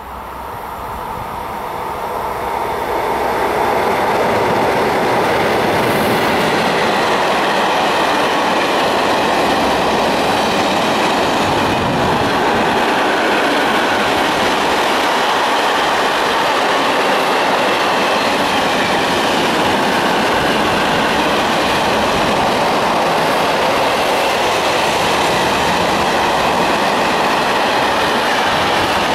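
Freight train of car-carrier wagons loaded with vans passing close by, its wheels running on the rails in a steady noise. The sound builds over the first few seconds, then holds loud and even.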